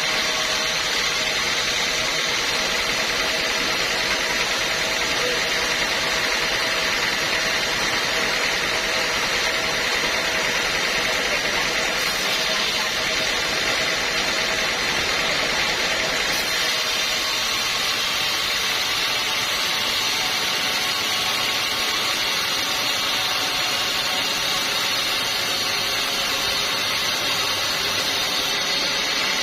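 Sawmill running steadily under power as it saws a teak log, a dense, continuous mechanical noise with a steady hum. The sound shifts slightly a little past halfway through.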